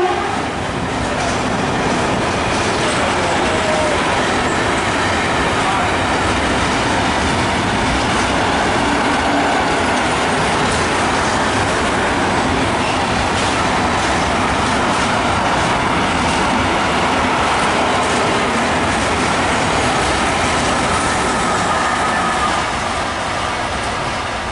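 Long intermodal freight train of container and swap-body wagons rolling past: a loud, steady rumble and rattle of wheels on rail with thin squealing tones. A brief sharp note comes right at the start, and the noise eases a little near the end.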